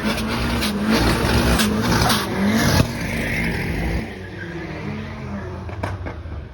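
Drag racing car accelerating hard at full throttle, its engine note climbing and dropping back through gear changes with sharp cracks. The sound drops off after about three seconds as the car moves away.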